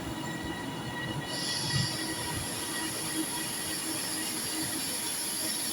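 Class 397 electric multiple unit running slowly into the platform, with a low rumble from the train and a high, steady squeal that sets in about a second and a half in as it slows.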